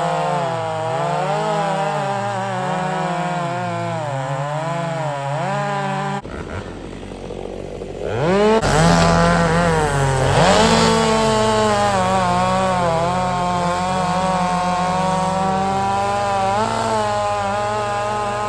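Two-stroke chainsaw running and cutting wood, its engine pitch dipping and recovering about once a second under load. The sound drops away about six seconds in, then the saw revs up again a couple of seconds later and runs on.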